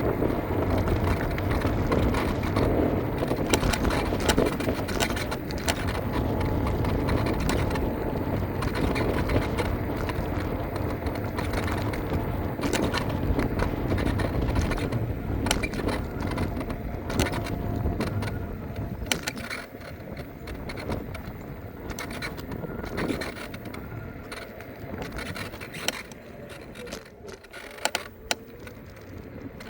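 Riding noise from an electric scooter: tyre rumble and wind noise with frequent small rattles and clicks. It grows quieter about 20 seconds in.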